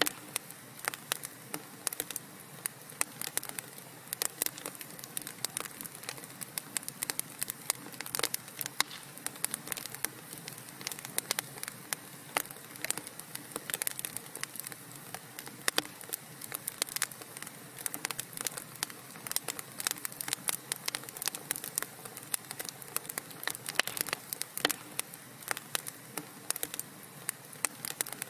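Wood fire burning in a fireplace, crackling with irregular sharp pops over a steady hiss.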